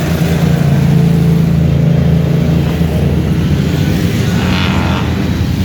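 Motorcycle engines running in a group ride: a loud, steady engine note that eases after about two seconds.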